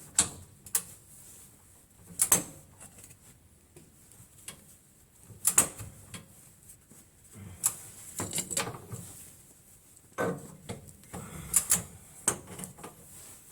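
Irregular metallic clicks and clanks of hand tools on suspension bolts, a wrench and socket being fitted and worked, with single knocks and quick pairs of clicks every second or two.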